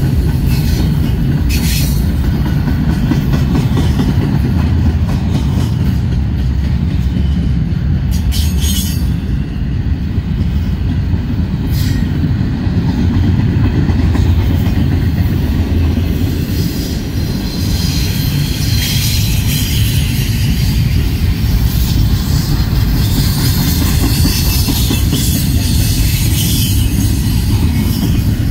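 Norfolk Southern freight train's double-stack container well cars rolling past close by: a steady, heavy rumble of steel wheels on the rails, with a few sharp clicks and a higher hiss that comes and goes.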